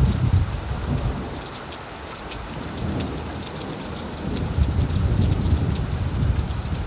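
Heavy rain falling on an old tin roof, a steady hiss of fine ticks, with a low rumble of thunder that fades away about a second in and builds again a little past the middle.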